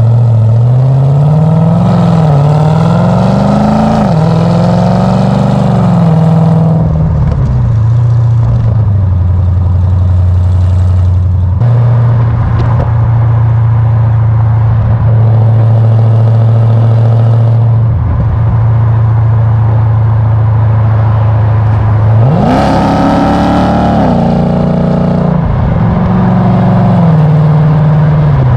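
Jeep Grand Cherokee SRT's 6.4-litre HEMI V8, breathing through Stainless Works headers and exhaust, is revved in a few blips and then drops to a steady idle. About two-thirds of the way through it is revved sharply again in several quick blips, then settles back to idle near the end.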